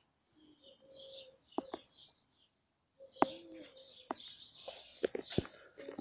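Small birds chirping in quick, high bursts, broken by a few sharp knocks, the loudest about three seconds in and several more close together near the end.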